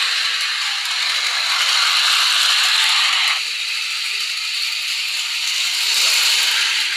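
Small geared motor and plastic running gear of a miniature toy train running, a steady mechanical whirring rattle that turns thinner and quieter about three and a half seconds in.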